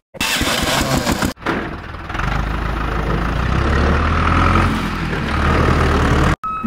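Engine starting: a harsh burst of cranking, a brief break, then a steady low idle that cuts off abruptly near the end.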